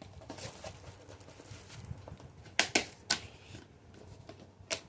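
Close mouth sounds of a person eating: quiet chewing with three sharp smacking clicks, two about half a second apart a little past halfway and one near the end.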